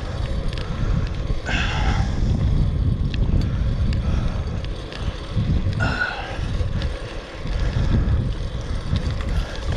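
Wind buffeting the microphone of a camera carried on a moving fixed-gear bike, a dense steady rumble, with two brief higher-pitched noises, about a second and a half and about six seconds in.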